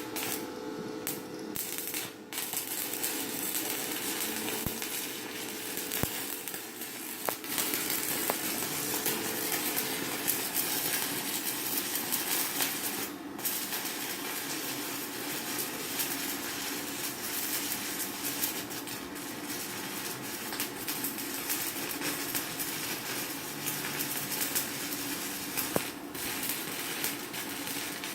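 Stick (shielded metal arc) welding with a 4.0 mm electrode on a Chinshui 160ARC inverter welder: the arc gives a steady crackling sizzle, dipping briefly a couple of times.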